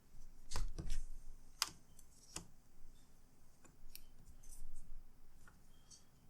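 Scattered sharp plastic clicks and knocks from a laptop being handled and turned around during reassembly, the loudest about half a second to a second in.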